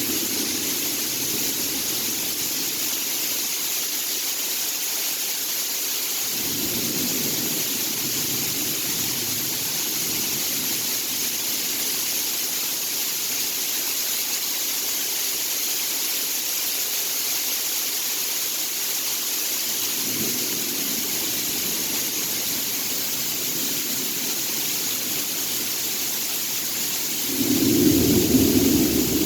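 Steady hiss of rain in a thunderstorm, with low rumbles of thunder swelling a few times, the loudest near the end.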